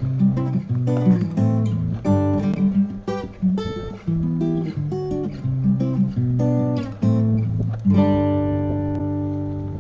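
Acoustic guitar music: a run of picked notes over a moving bass line, ending about eight seconds in on a strummed chord that rings on and slowly fades.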